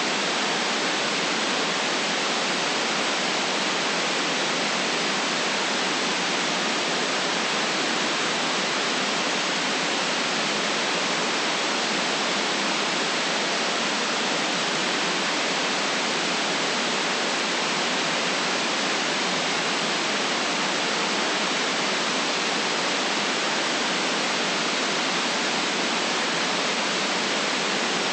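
White noise: a steady, even hiss that never changes, with no deep rumble in it.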